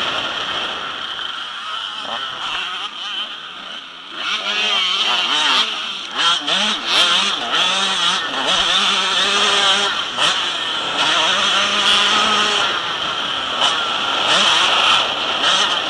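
Several motocross bikes' engines revving up and down as they race on the track, their pitch rising and falling with the throttle. They grow louder from about four seconds in.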